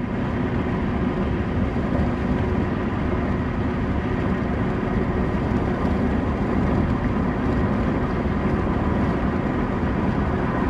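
Steady, unbroken mechanical rumble with a faint constant hum, like a vehicle engine running.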